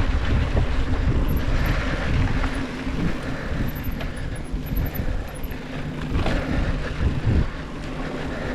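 Mountain bike riding down a dirt trail: wind buffeting the microphone over tyre rumble and rattling, with a couple of sharp knocks about six and seven seconds in.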